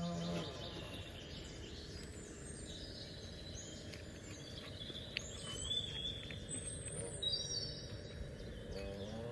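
Birds chirping and singing, many short high whistled phrases, over a steady low background noise.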